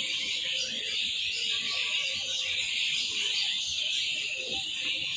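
Many birds chirping together in a dense, unbroken high-pitched chorus, with a few fainter lower calls among it.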